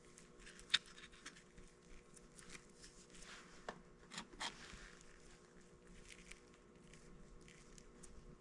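Faint scattered clicks and rustling, like small handling noises. There is one sharp click about a second in and a few more around the middle.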